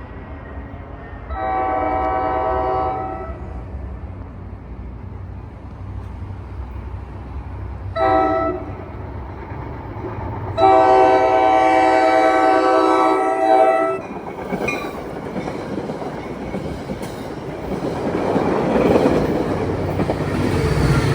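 NJ Transit train's multi-chime air horn sounding three times, long, short, then a longer blast, followed by the rising rumble and rush of the train approaching and passing.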